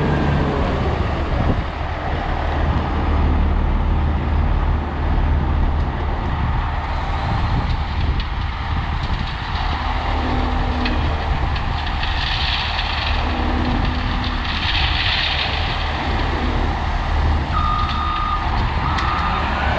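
International S1900 dump truck's DT466 diesel engine running steadily with a low drone, with two short hisses a little past the middle.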